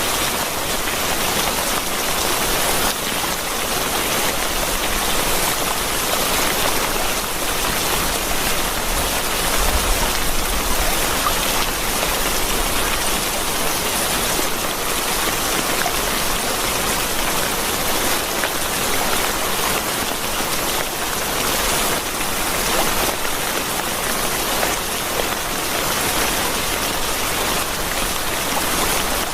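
Steady rain falling, an even, unbroken hiss of many raindrops.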